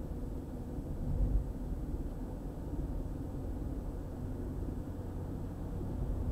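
Car driving on a highway: a steady low rumble of tyres and engine, with one brief louder low thump about a second in.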